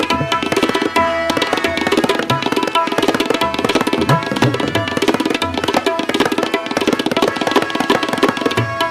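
Instrumental interlude of Sikh raag kirtan: tabla played in a fast, dense pattern over steady held notes from a harmonium.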